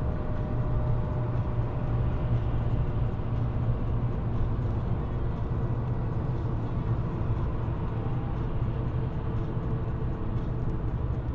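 Steady engine and road noise of a moving car, heard inside the cabin through a dash camera's microphone.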